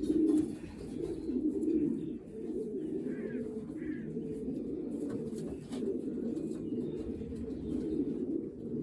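Racing pigeons cooing in a loft: a steady, low chorus of overlapping coos from many birds.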